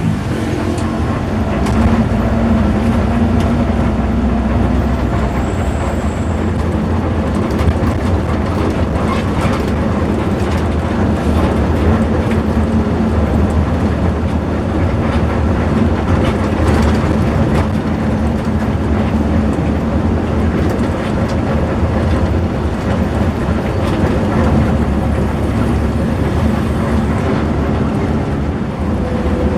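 Coach bus on the move: a steady engine drone over low road rumble.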